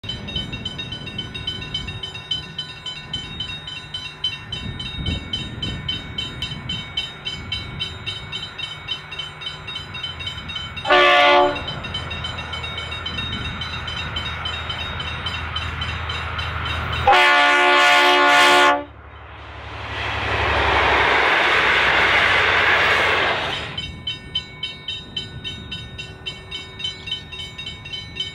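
V/Line diesel locomotive hauling a passenger train: its engine drone builds as it approaches, it sounds a short chord horn blast and, several seconds later, a longer one, then the train rushes past for a few seconds and fades.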